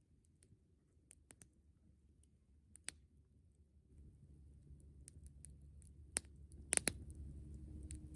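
Wood crackling and popping in a campfire: scattered sharp snaps at irregular intervals, with a low rumble building about halfway through and the loudest pops near the end.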